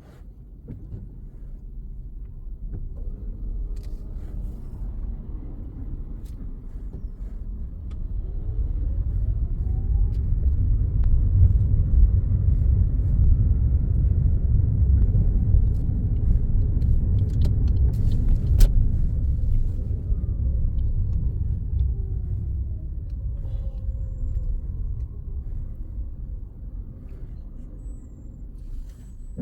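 Car engine and road noise heard from inside the car, a low rumble that builds as the car speeds up, the engine pitch rising, then eases off as it slows down. A single sharp click sounds about two-thirds of the way through.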